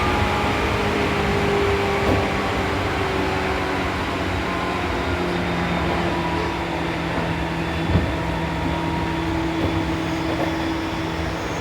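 Seibu New 2000 series electric train heard from inside the car while running, with a steady whine from the traction motors and gears over wheel and rail noise. The whine sinks slowly in pitch as the train eases off approaching the next stop. One short knock comes about eight seconds in.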